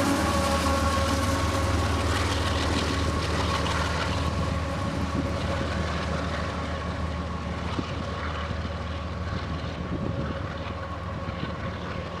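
Freight train of empty ethanol tank cars rolling past: a steady rumble of wheels on rail with a faint steady ring, growing gradually quieter.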